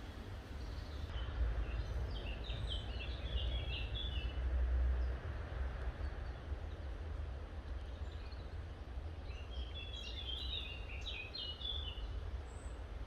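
A songbird singing two short bursts of quick, chirping notes, one a couple of seconds in and another near the end, over a constant low rumble.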